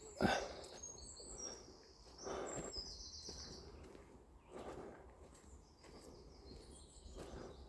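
Small birds singing high-pitched chirping phrases during the first few seconds, with a few soft rustling footsteps on the woodland floor.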